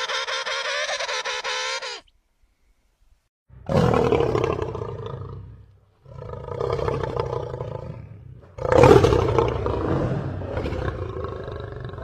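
Tiger roaring three times, each roar starting loud and tailing off, after a short pause. This follows a brief, steady, high-pitched animal call at the start.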